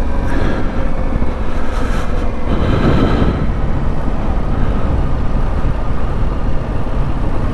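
Yamaha Ténéré 700's parallel-twin engine running steadily as the motorcycle rides along, with a low rumble throughout and a brief swell about three seconds in.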